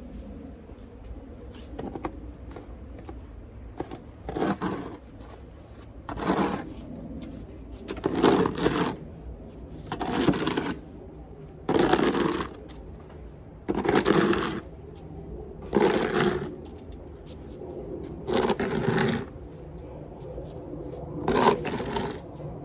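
A snow shovel scraping and scooping through snow in regular strokes, about one every two seconds.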